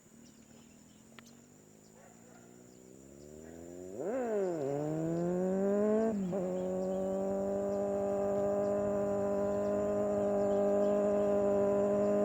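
Kawasaki Z800 inline-four engine through an aftermarket Rockvan exhaust, faint at first, then revving up through the gears with a drop in revs at shifts about four and six seconds in. After that it holds steady revs, growing slowly louder.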